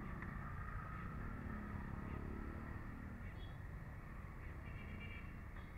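Motorcycle engine running faintly, just started, with a low swell in the engine sound about two seconds in.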